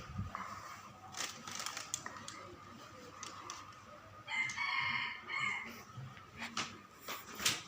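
A single long crowing call, about four and a half seconds in, over faint scattered clicks.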